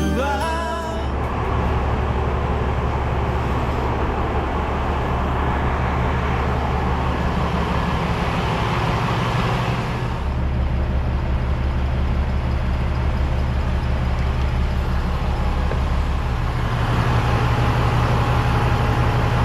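Vehicle engine running steadily, a low drone whose pitch shifts about halfway through and again near the end.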